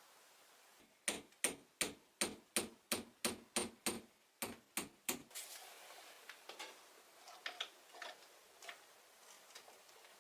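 A hammer striking about a dozen times in quick, even succession, roughly three blows a second, each with a slight ring, as in nailing. Lighter, scattered knocks follow.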